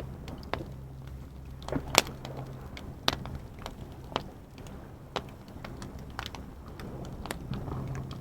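Campfire wood crackling, with irregular sharp pops every second or so, the loudest about two seconds in.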